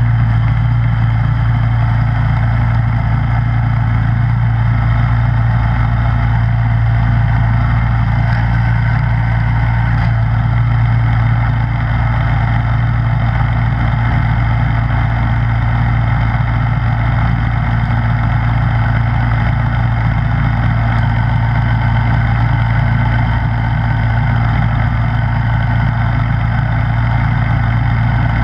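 Snowblower engine running steadily: a constant drone with a strong low hum, unchanging throughout.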